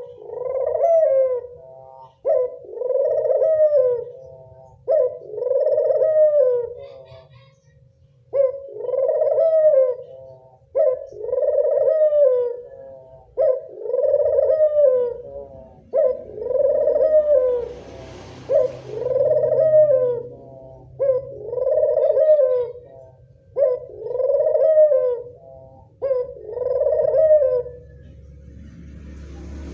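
Puter dove (collared dove) cooing over and over, about eleven evenly spaced phrases, each a short note followed by a rolling coo of about two seconds, as a lure call for doves.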